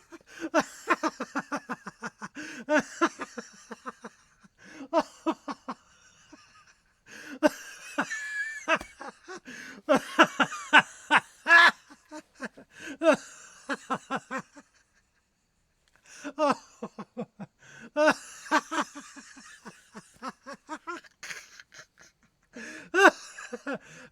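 Human laughter in several runs of quick, breathy pulses, each run broken off by a short pause.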